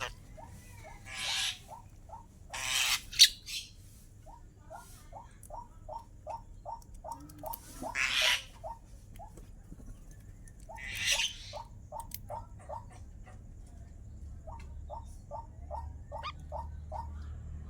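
Pet starling calling in runs of short, evenly repeated chirps, about three a second, broken by several harsh, rasping bursts; the loudest burst comes about three seconds in.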